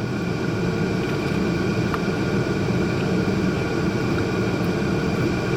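Steady mechanical drone: a low, even rumble with a few steady hum tones over it, unchanging throughout.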